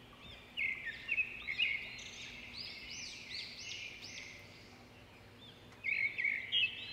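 Small songbirds twittering in quick, high, rising-and-falling notes, in two busy spells with a quieter stretch between them.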